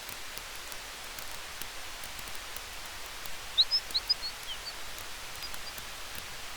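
Campfire crackling with small scattered pops over a steady hiss of wind in the trees. About halfway through comes a quick run of short, high chirps, the loudest sound here.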